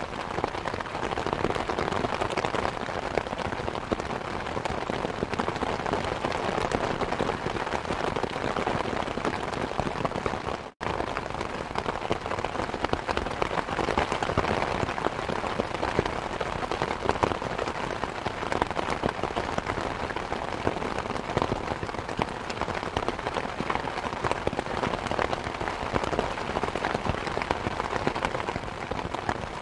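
Steady rain with a fireplace crackling, a dense patter of fine pops and drops. The sound drops out for a split second about eleven seconds in.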